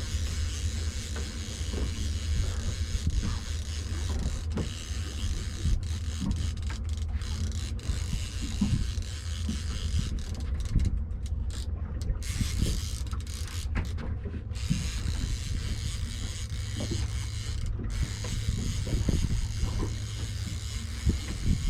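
Fishing reel being cranked to bring in a hooked tope, a run of irregular mechanical clicks and creaks over a steady low rumble.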